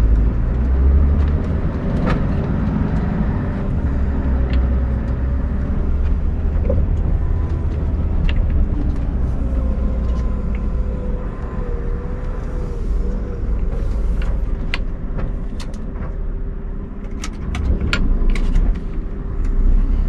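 Scania R580 truck's V8 diesel engine running steadily during slow manoeuvring, a low rumble with a steady hum. A few sharp clicks come near the end.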